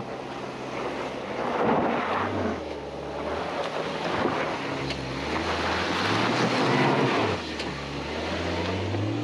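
Suzuki Jimny's engine working slowly over rough ground, its pitch rising and falling as the driver eases on and off the throttle, with a rushing noise over it.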